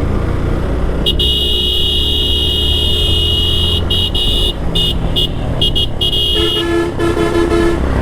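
Horns honking repeatedly while overtaking a bus on a narrow road, over the low rumble of a riding motorcycle and wind. A high-pitched horn sounds in several blasts from about a second in. Near the end a lower-pitched horn gives a few short beeps.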